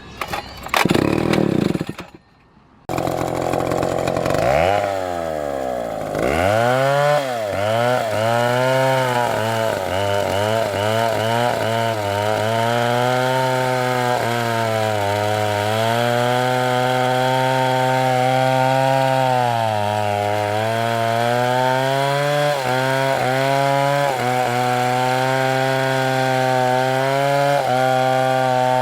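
Two-stroke chainsaw revving up from a brief quiet about three seconds in, then running at high speed while cutting wood, its pitch sagging again and again as the chain bites under load.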